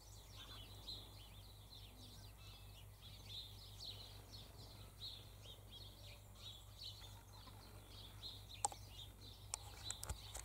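Faint, busy chirping and twittering of small birds, many short high calls overlapping without a break, with a few soft clicks near the end.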